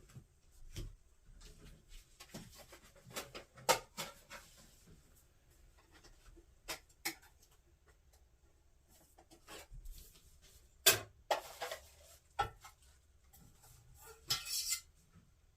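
Camp gear being handled and set in place: scattered light clicks and knocks, the sharpest about four seconds in and again about eleven seconds in, with some rustling and a brief rustle near the end.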